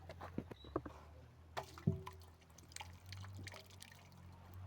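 A few scattered knocks and clinks of handled objects, the loudest about two seconds in with a short ring after it, over a steady low hum.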